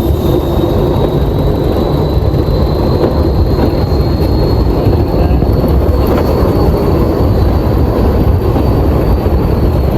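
Test Track ride vehicle moving, a loud steady rush of wind and running noise, with a faint steady high whine over it.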